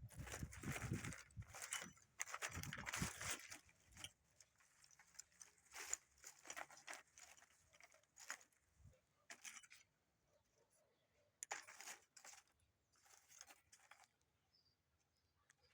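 Quiet, irregular rustling and scraping of handled objects, busiest in the first few seconds and then coming in short scattered bursts with quiet gaps between.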